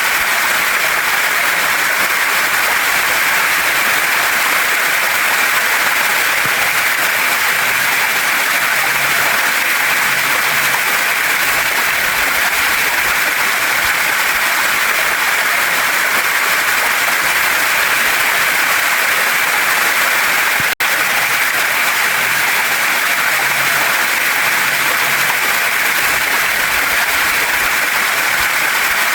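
Waterfall and stream water rushing and splashing over rocks: a steady, dense hiss without rhythm, broken once by a split-second gap about two-thirds of the way through.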